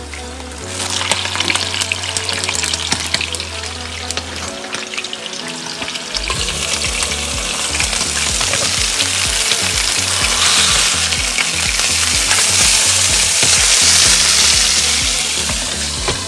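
Beef burger patties sizzling in oil in frying pans, a steady hiss that grows louder about six seconds in.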